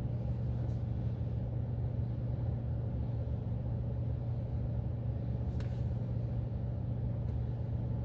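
Car engine idling, a steady low hum heard inside the cabin, with one faint click about five and a half seconds in.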